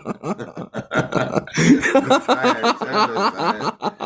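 A man's voice, speaking or vocalising without clear words.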